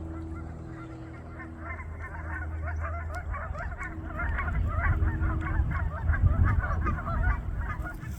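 A flock of geese honking, many short calls overlapping, starting about a second and a half in and thinning out near the end, over a low rumble that is loudest in the second half.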